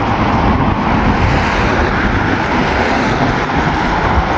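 Steady road traffic noise mixed with heavy wind rumble on the microphone.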